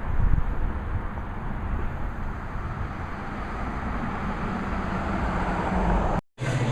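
Steady vehicle rumble and road noise with no speech.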